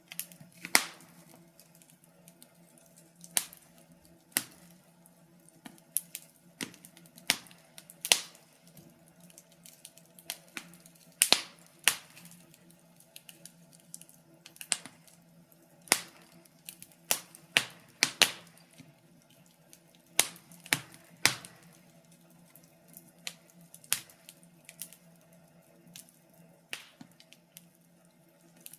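Wood fire crackling, with irregular sharp pops and snaps, some in quick clusters and others seconds apart, over a faint steady low hum.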